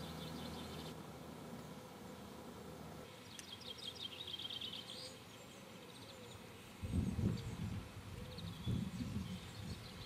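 Outdoor ambience: a songbird sings a quick run of high notes about three seconds in, and from about seven seconds in wind buffets the microphone in irregular low gusts.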